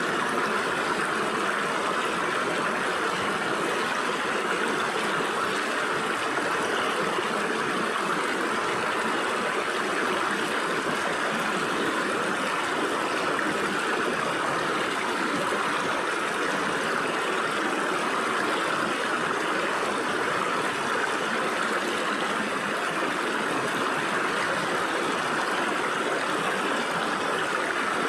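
Stream water flowing and splashing steadily through gaps between rocks, an even rushing and trickling.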